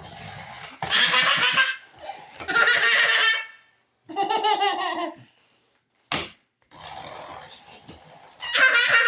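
Young child laughing in several loud bursts, with short pauses between them.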